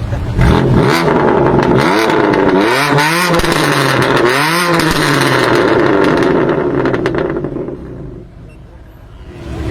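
Tuned BMW performance car's engine revving loudly, with two quick rises and falls in pitch in the middle, dying away near the end.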